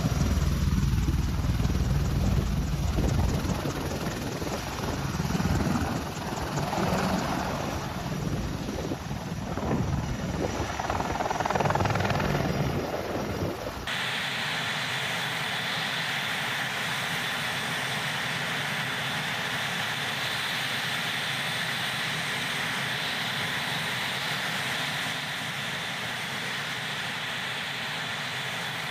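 Helicopter rotor and engine noise, uneven and rumbling for the first half. About halfway through it cuts abruptly to a steady, even hiss with a faint held whine.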